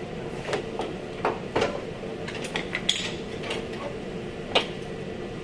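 Irregular sharp metallic clicks and clinks of tools and body parts being handled while a car fender and bumper are fitted. The loudest knock comes a little over four and a half seconds in, over a steady hum.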